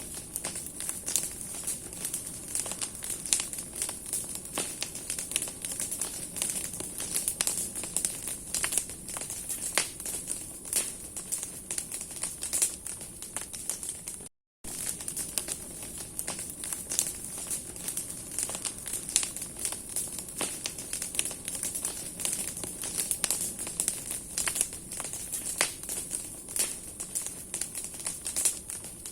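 Large wood bonfire of burning branches crackling and popping steadily, with dense irregular sharp snaps over the hiss of the flames. The sound cuts out for a split second about halfway through.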